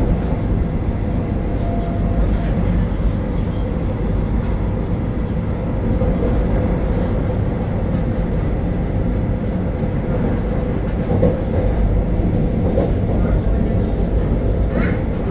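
Vande Bharat Express electric multiple unit running at speed through a station, heard from aboard: a steady rumble of wheels on rail with a steady hum under it.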